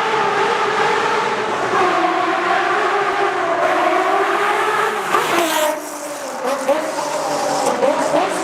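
Ferrari F50's 4.7-litre V12 engine running hard, its pitch wavering at high revs. About five and a half seconds in, the pitch drops sharply as the throttle is lifted. A few sharp cracks follow, and near the end the revs rise quickly again.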